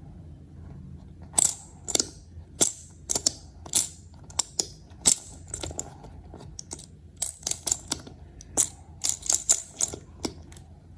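A string of irregular sharp clicks and taps, about two dozen over some nine seconds, over a faint low hum.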